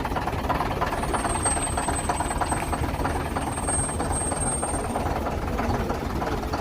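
A vintage bus's diesel engine running steadily with an even clatter, and a faint high whine from about a second in to about five seconds in.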